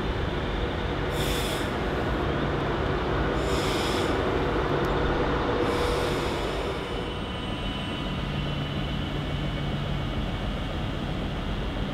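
Class 390 Pendolino electric train running along the platform line: a steady rumble of wheels on rail, with three short high hissing bursts in the first six seconds.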